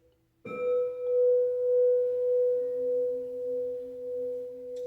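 A struck instrument ringing with a steady, pure tone that wavers slowly in loudness; a second, lower tone joins about halfway through.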